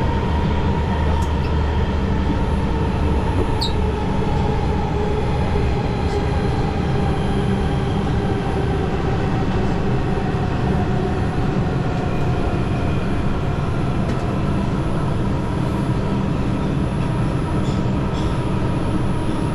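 New York City subway train running, a steady, unbroken rumble of wheels on rails with faint whining tones over it.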